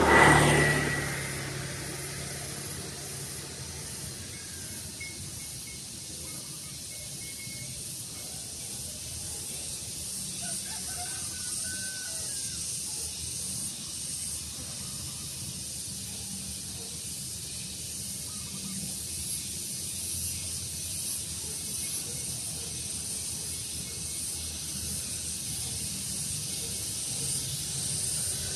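Daytime outdoor ambience: a steady high hiss with faint, scattered bird chirps. A brief louder whoosh swells and fades right at the start.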